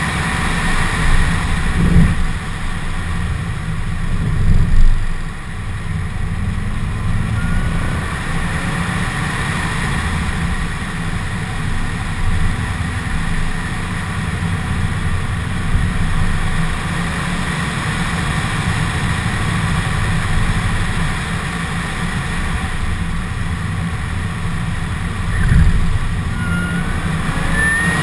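2015 Corvette Z06's supercharged 6.2-litre LT4 V8 running on track, with a steady engine drone. Short rising whines come in about a quarter of the way through and again near the end, and there are a few louder low bumps, the loudest about a sixth of the way in.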